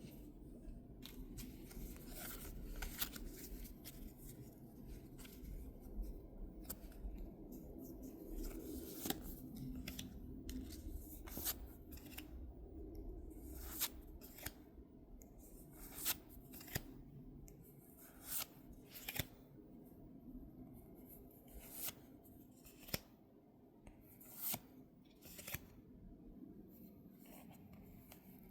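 Irregular sharp clicks and snips from hands working through the cards and packaging of a Pokémon card box, about one every second or two, over a low hum that fades about halfway through.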